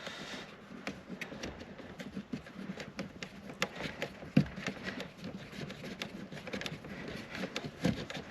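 Scattered small clicks and taps of tools and small parts being handled during work on a car's dashboard, with a duller knock about four seconds in and another near the end.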